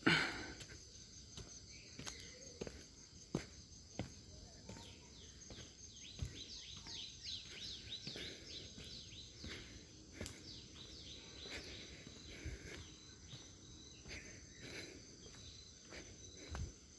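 Quiet outdoor ambience: a steady high insect drone, with a bird giving a run of short falling chirps in the middle, and scattered faint footsteps on the path.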